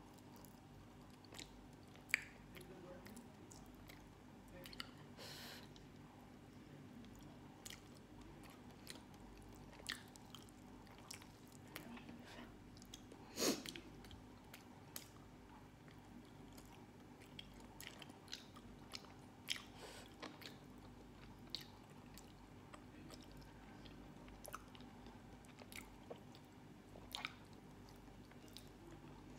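A person eating soft sweet potato close to the microphone: faint chewing with scattered short mouth clicks, the loudest about halfway through.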